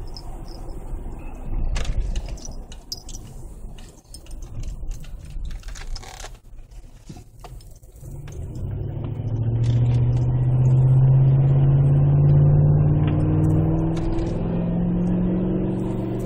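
2008 Chevy Tahoe V8 exhausting through an aftermarket Magnaflow muffler with the stock resonator kept. After a quieter stretch with scattered clicks, the deep exhaust note comes up about halfway through as the truck accelerates, its pitch climbing slowly and staying loud.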